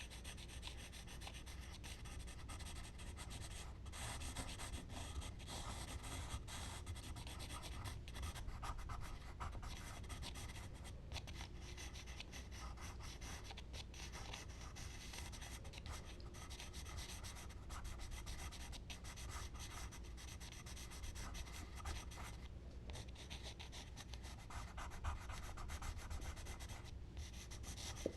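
Charcoal being worked across smooth Bristol paper: steady scratching and rubbing strokes with a few brief pauses, over a low steady hum.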